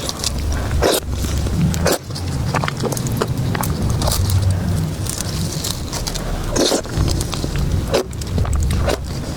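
Close-miked eating sounds: food being chewed in the mouth, with irregular wet clicks and crunches over a steady low rumble.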